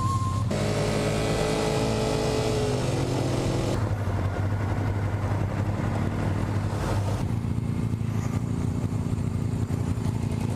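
Motorcycle engine running steadily under way, with wind rushing over the microphone; in the first few seconds the engine note slides slowly down as the bike eases off.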